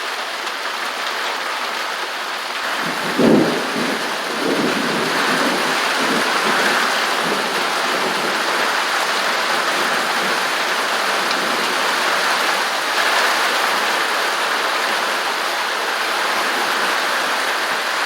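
Steady rain pouring down on zinc roofing, an even hiss of drops that grows a little heavier about five seconds in. A brief low rumble comes about three seconds in.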